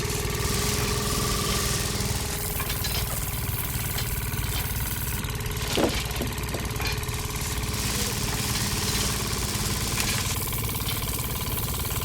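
Small engine of a miniature construction machine running steadily, with a fast even chugging.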